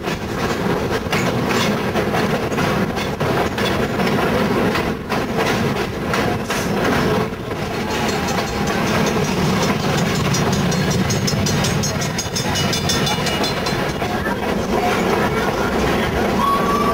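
Conway Scenic Railroad train rolling along the track: a steady rumble of the cars with repeated clicks from the wheels over the rails.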